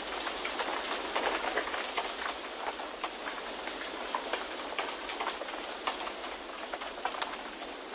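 Steady rushing wind with irregular light crackles and ticks scattered through it, and no low rumble.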